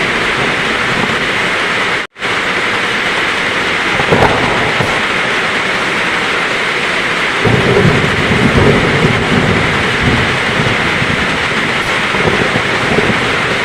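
Heavy rain falling steadily, with thunder: a short crack about four seconds in and a low rolling rumble from about seven to ten seconds. The sound cuts out completely for a split second about two seconds in.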